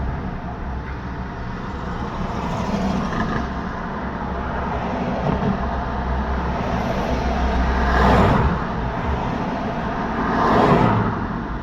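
Road traffic passing close by: a steady rumble of tyres and engines. Two vehicles swell loud and fade as they pass, one about eight seconds in and another about two and a half seconds later.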